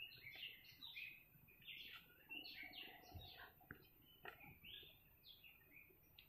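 Small birds chirping quickly in a rapid string of short notes, with a few soft knocks mixed in.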